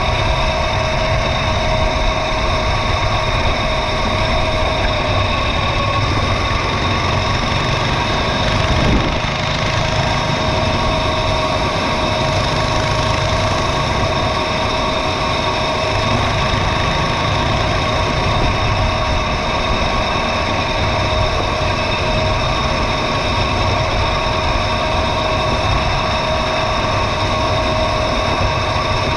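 Mini bike running at a steady speed along a dirt trail: an even motor drone with fixed tones, no revving, over a rough rumble, with a brief bump about nine seconds in.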